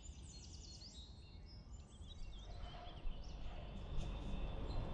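Birds chirping faintly in quick, high, sweeping notes over a low steady background noise that grows a little louder toward the end.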